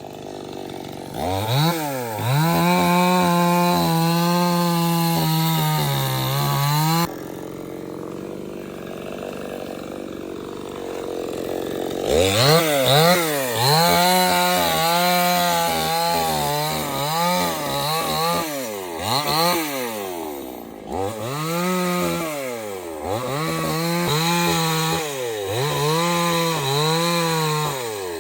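Stihl 070 two-stroke chainsaw revving up to full throttle and holding there, then dropping back to idle suddenly about seven seconds in. About five seconds later it revs up again and runs in pulses, its speed dipping and recovering roughly every two seconds.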